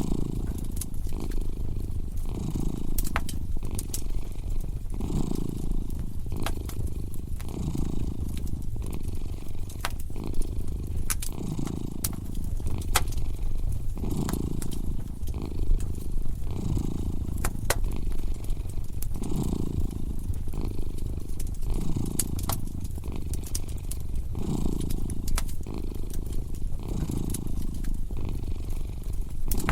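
A cat purring steadily, swelling and fading about every second and a half. Over it, a fire crackles with scattered sharp pops.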